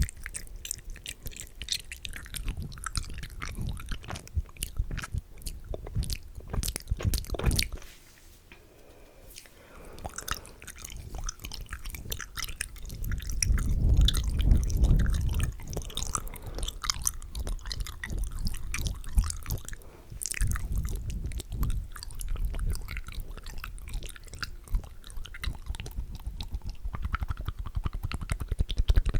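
Close-miked ASMR mouth sounds: fast, dense clicks and smacks. They briefly drop away about eight seconds in.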